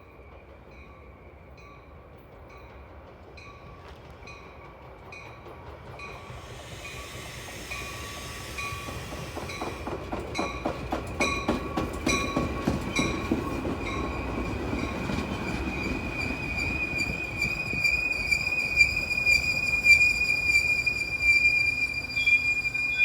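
A train approaches and passes. A railroad crossing bell rings steadily throughout. From about ten seconds in, the wheels click rhythmically over the rail joints, then a high steady wheel squeal builds and is loudest near the end.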